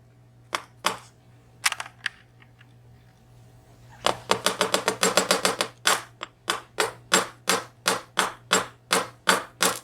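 Sharp clicks and taps of small lock parts and tools as a VSR dimple lock is disassembled and its pins sorted. First a few scattered clicks, then a quick run of them about four seconds in, then steady clicks about three a second.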